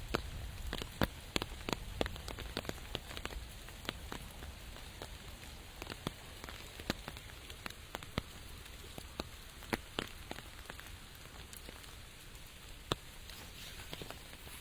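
Steady rain with many sharp, irregular drop hits over a soft hiss.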